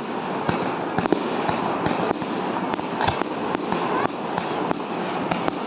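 Fireworks display going off: dense continuous crackling with many sharp bangs, several a second, in quick succession.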